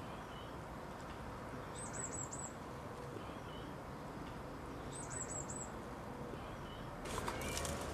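Steady outdoor background hiss with a small bird calling twice, each call a quick run of four high, falling chirps. A few clicks and rustles start near the end.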